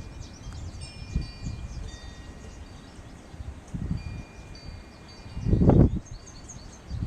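Wind chimes ringing in a gusty wind: several high tones struck and ringing on, overlapping one another. Low wind rumble on the microphone comes in gusts, the strongest about five and a half seconds in.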